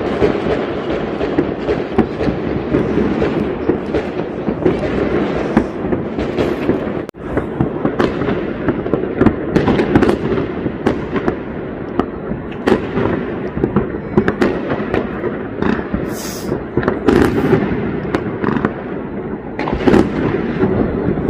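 Many fireworks going off at once: a continuous din of crackling with sharp single bangs standing out all the way through. The sound drops out for a split second about seven seconds in.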